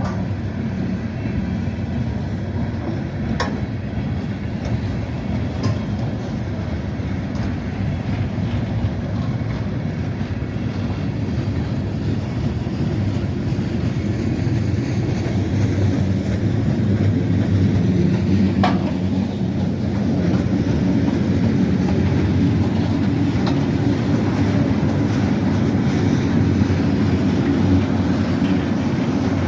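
Freight train rolling past, a steady rumble of wheels on rail that grows a little louder midway, with a few sharp metallic clicks and one brief squeal falling in pitch.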